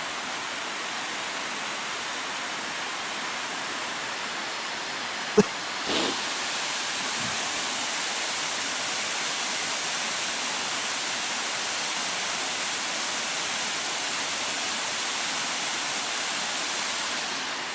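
Waterfall pouring into its plunge pool: a steady rush of falling water that grows a little louder and brighter about six seconds in and eases back near the end. A single sharp click about five seconds in.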